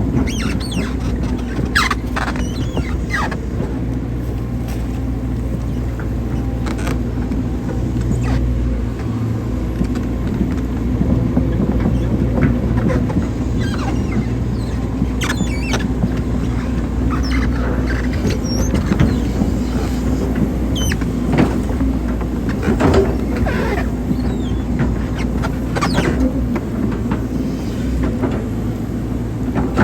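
Hydraulic excavator's diesel engine running steadily under working load, with scattered short squeaks and clicks from the machine's arm and bucket as it works.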